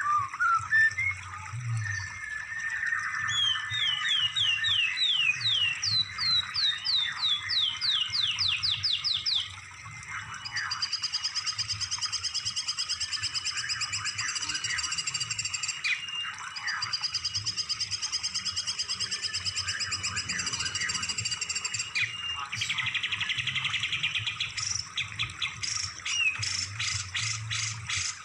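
Songbird song in varied phrases: a run of quick upward-sweeping whistles, then a long, fast buzzy trill, then rapid chattering trills near the end.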